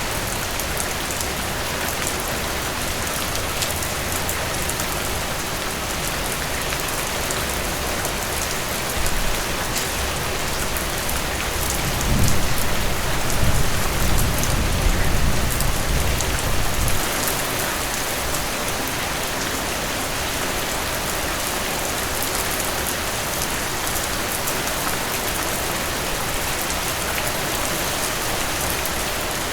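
Heavy rain pouring steadily, with a low rumble of thunder about halfway through that swells and fades over a few seconds.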